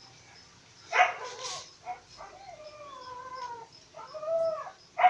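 A dog yelping once about a second in, then whining and whimpering in long, wavering calls that slide down in pitch.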